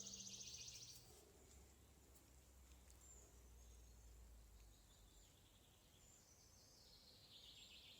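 Near silence: faint outdoor ambience with a high, rapid chirring trill in the first second and again near the end.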